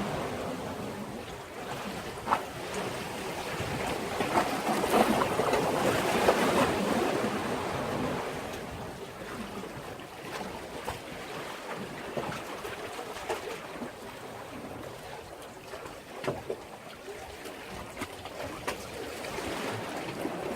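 Sea waves washing against a breakwater. The wash swells over the first several seconds, then eases, with a few short splashes along the way.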